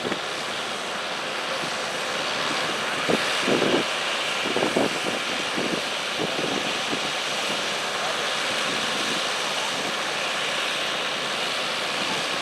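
Farm tractor engine running hard under load during a sled pull, a steady heavy noise with wind on the microphone.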